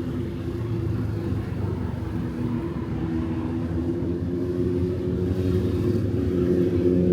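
Road traffic on a city street: a nearby engine's steady low hum over a general traffic wash, growing slowly louder toward the end.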